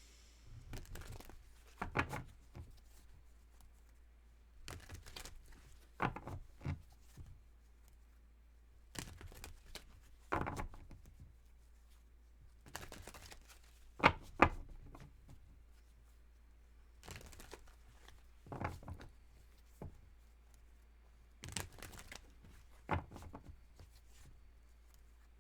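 Tarot cards being shuffled and handled: short clusters of papery snaps and riffles come about every four seconds, with near quiet between them.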